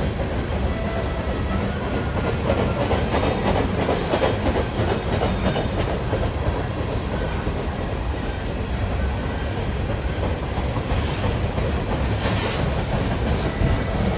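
Wheeling and Lake Erie freight train's loaded cars rolling slowly past: a steady rumble of steel wheels on the rails.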